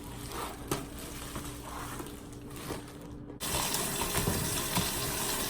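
A few faint clicks, then a steady rush of running water that starts abruptly about three and a half seconds in.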